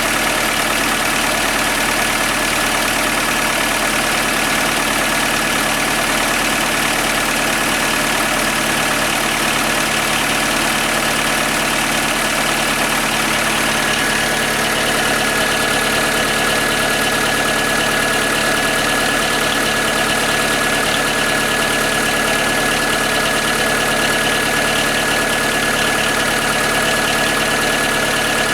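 Skoda Fabia 1.4 16V MPI (BKY) four-cylinder petrol engine idling steadily on a cold start, with a steady high whine that strengthens about halfway through. It carries a light, barely audible knock, which the mechanic puts down to piston slap from enlarged piston-to-cylinder clearance.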